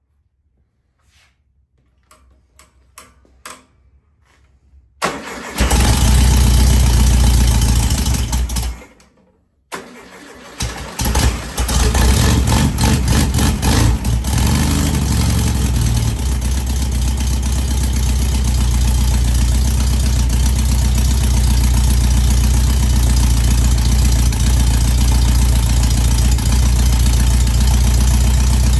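Rebuilt 1970 VW Beetle air-cooled flat-four engine starting. After a few faint clicks it fires up about five seconds in and cuts out near nine seconds. It restarts a second later, stumbles briefly, then settles into a steady run.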